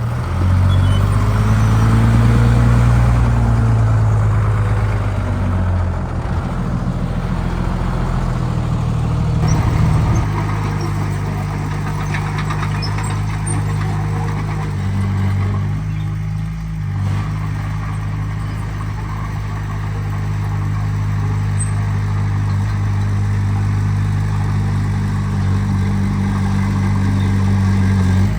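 Heavy diesel engine of earthmoving machinery running. Its pitch shifts and it is louder for about the first ten seconds, then it settles into a steady run.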